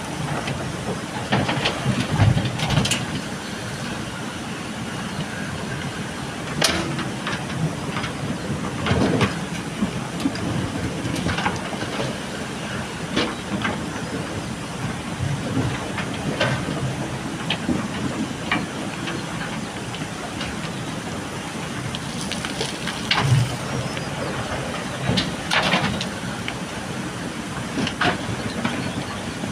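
JCB backhoe loader's diesel engine running steadily while it loads gravel, with irregular clatters and clanks of stones and the metal bucket; the sharpest knocks come about two seconds in, around seven and nine seconds, and twice near the three-quarter mark.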